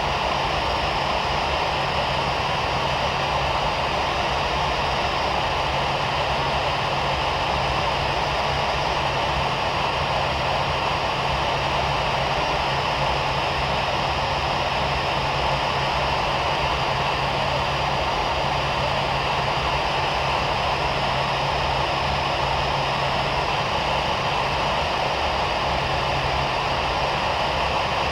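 Steady cabin noise inside a parked Boeing 737 MAX 9: an even rush of air from the ventilation over a constant low hum, with no change throughout.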